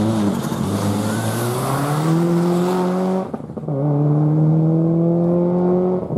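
Four-wheel-drive rally car accelerating hard: the engine's pitch climbs steadily, breaks for an upshift about three seconds in, then climbs again from a lower pitch, with another shift at the end.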